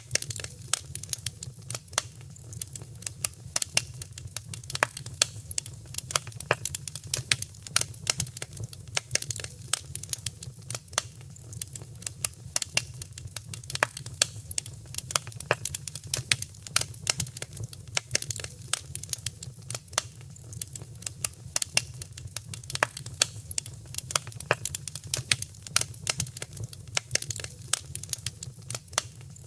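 Wood fire crackling in a fireplace: a dense, irregular run of sharp snaps and pops over a low, steady rumble.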